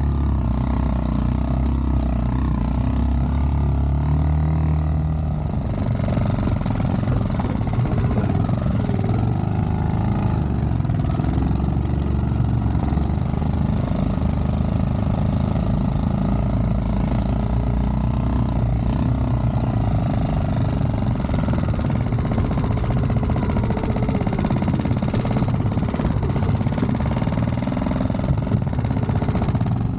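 Small Dax minibike engine running steadily under way, its pitch drifting up and down with the throttle, with heavy wind rumble on the microphone.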